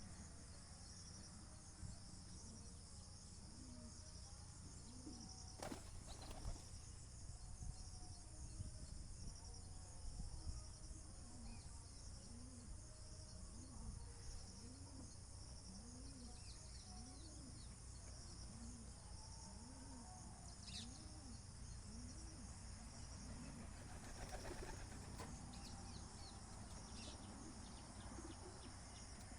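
Domestic pigeons cooing, a low repeated coo about once a second, faint, with brief wing-flapping bursts around six seconds in and again about twenty-four seconds in.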